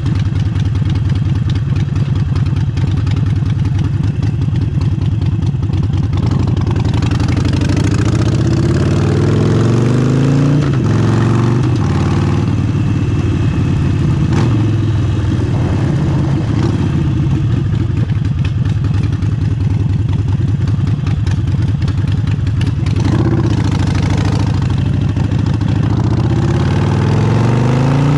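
Harley-Davidson Forty-Eight V-twin running through an aftermarket exhaust while riding. It holds a steady pitch for the first few seconds, then climbs in pitch several times, dropping at each gear change. A rushing noise of wind on the camera microphone runs underneath.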